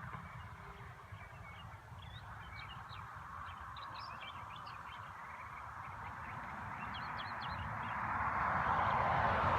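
Birds chirping, many short high calls, over a low rumble. A broad rushing noise grows steadily louder over the last few seconds.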